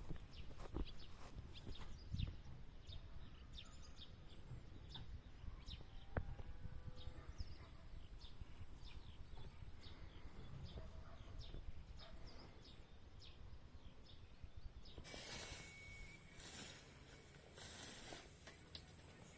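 Quiet rural outdoor ambience: small birds chirping over and over over a low wind rumble. About fifteen seconds in, a brighter rushing hiss comes in.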